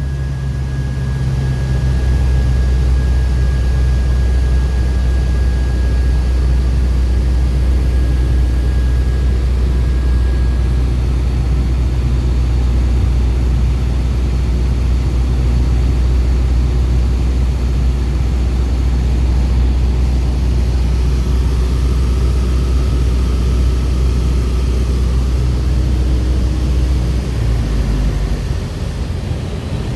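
Mooney single-engine piston airplane's engine and propeller running as a loud, steady low drone, dipping slightly near the end.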